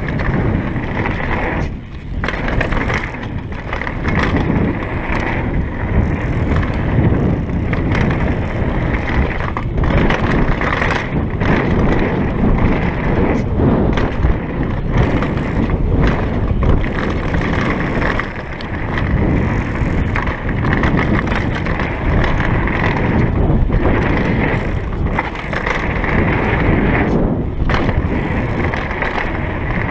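Kona Stinky downhill mountain bike ridden fast down a rough dirt trail: continuous tyre noise, with frequent knocks and rattles as the bike hits bumps and roots.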